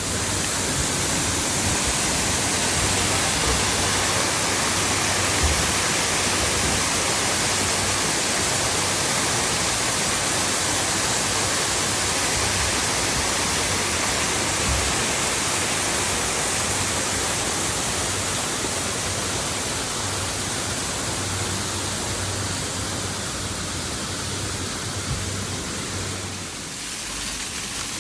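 Waterfall: a steady, even rush of falling water, dipping slightly in level near the end.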